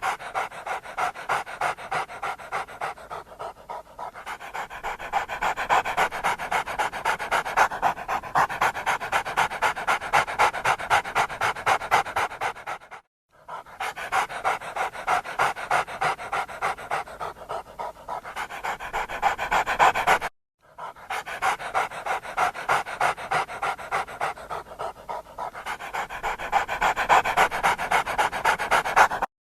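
Dog panting in a rapid, even rhythm, breaking off briefly twice.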